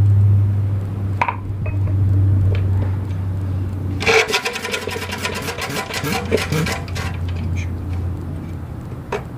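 Briggs & Stratton Model FH single-cylinder engine running on a cold start with a steady low hum. About four seconds in, a stretch of rapid, sharp, regular firing beats lasts some three seconds.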